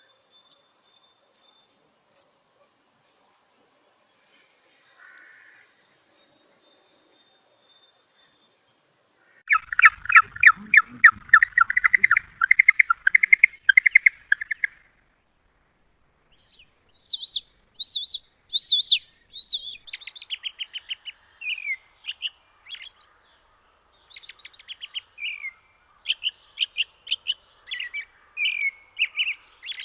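Birds chirping and singing. There is first a string of high, thin chirps. From about ten seconds in comes a fast trill of lower notes lasting about five seconds, and after a short gap there are varied, quick song phrases to the end.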